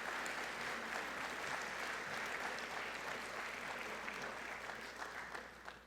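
Audience applauding in a large gym, steady clapping that stops abruptly near the end.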